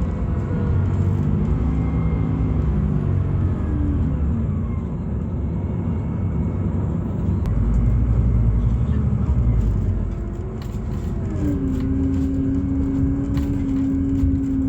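Scania Citywide LFA CNG bus with its Scania OC09 gas engine and ZF automatic gearbox, heard from on board while driving: a heavy low rumble with engine and drivetrain tones that fall in pitch in the first few seconds, then settle into a new steady whine near the end.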